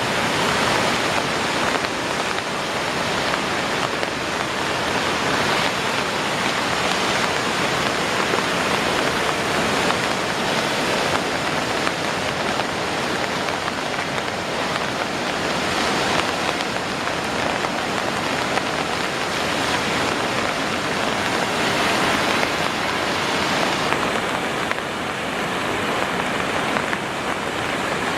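The Bow River in flood: high, fast water rushing in a steady, unbroken wash of noise.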